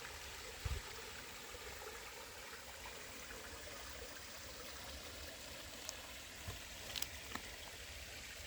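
Creek water running steadily over small cascades, an even rushing trickle, with a soft low thump shortly after the start and a few faint clicks near the end.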